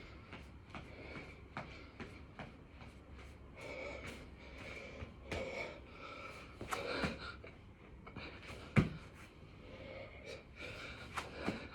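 A man breathing hard in gasps and puffs while doing burpees, with short knocks as his hands and feet hit the floor. A single sharp thud a little before nine seconds in is the loudest sound.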